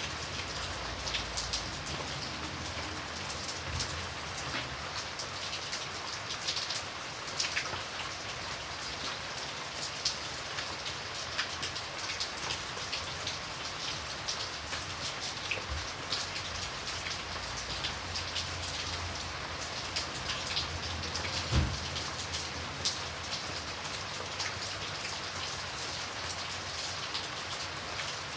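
Steady rain falling on a hard surface, a continuous hiss with many close individual drop ticks; one louder single knock about three quarters of the way through.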